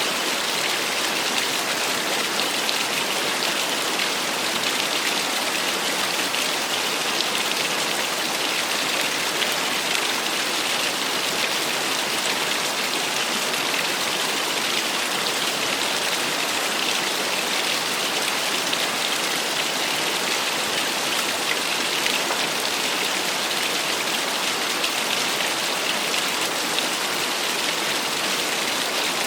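Small waterfall splashing steadily: a dense, even hiss of falling water with almost no low rumble.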